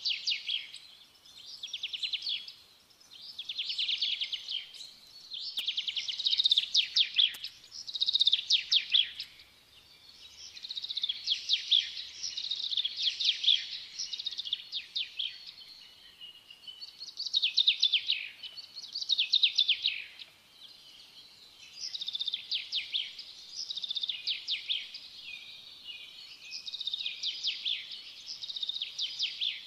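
Songbird singing: high-pitched phrases of quick trilled notes, one every second or two with short pauses between.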